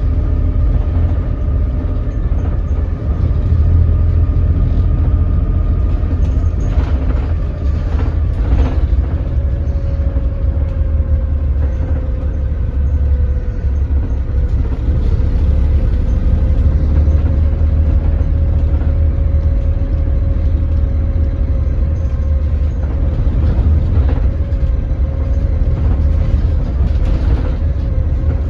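Daewoo BS106 city bus's Doosan DL08K diesel engine running at low revs, a deep steady rumble with a thin, slightly wavering whine above it. A few short knocks or rattles come about seven to nine seconds in.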